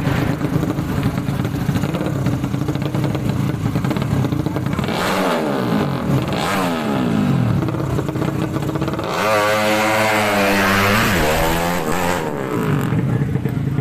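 Drag-race underbone motorcycle engines running steadily, then revving with the pitch rising and falling several times about five seconds in. A louder engine run follows around nine seconds in, its pitch sliding down and then climbing again before easing off about twelve seconds in.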